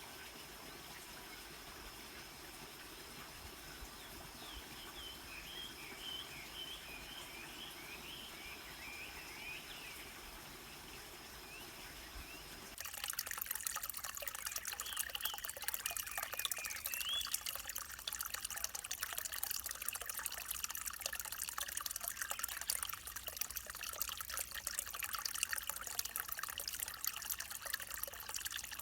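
River water flowing, with a bird chirping repeatedly over a steady high-pitched tone. About 13 seconds in it changes abruptly to a louder, brighter babble of water trickling and splashing over stones, with a few more bird calls.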